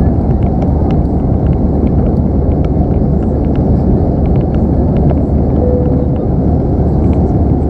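Steady, loud cabin noise of an Airbus A319 in flight, a deep constant rush of engine and airflow heard from inside the cabin. Faint small ticks run through it, and a brief steady tone sounds about six seconds in.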